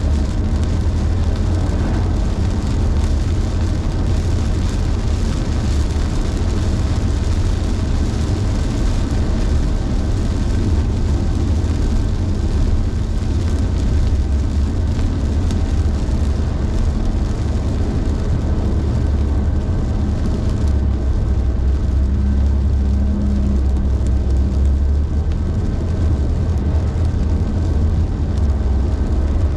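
A car driving in rain: a steady low road rumble under a hiss of rain and tyres on wet pavement. The hiss thins about 21 seconds in.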